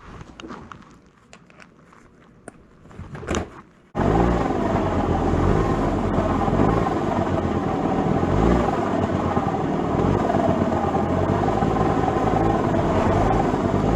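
Honda Lead 100 scooter's two-stroke engine running steadily, cutting in abruptly about four seconds in, after a few faint clicks and knocks.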